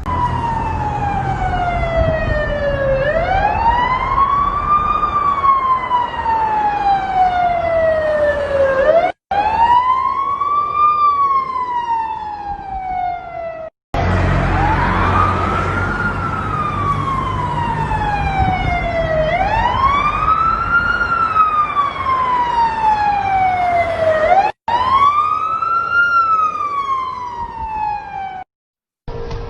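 Emergency vehicle siren wailing in slow cycles: the pitch climbs quickly, then falls slowly, about every six seconds, over a low rumble. The sound cuts off abruptly several times.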